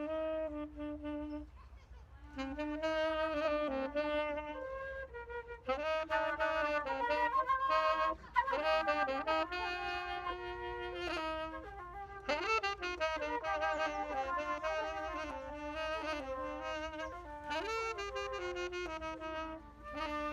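Wind instruments improvising a jazz melody in a jam, with phrases that pause briefly about two seconds in and then continue. A steady low hum runs underneath.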